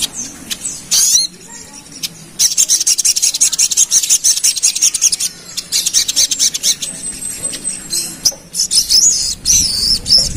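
Crimson sunbird (sogon) singing its fast chattering song: dense bursts of rapid, very high-pitched twittering notes, with short pauses between the bursts.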